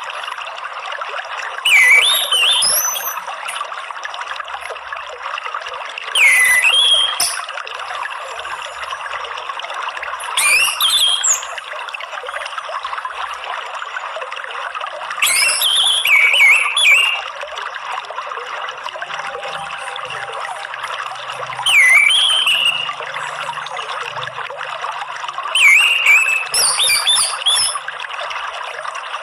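Orange-headed thrush singing six short whistled phrases a few seconds apart, each with swooping notes, over steadily trickling water.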